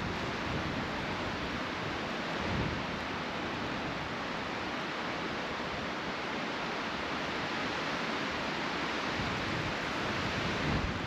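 Steady rushing wind in a snowstorm, an even noise with no distinct strikes or rhythm.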